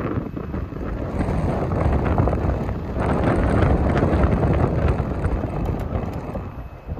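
Strong gusting wind buffeting the microphone, rising and falling in loud rumbling gusts that mask any other sound.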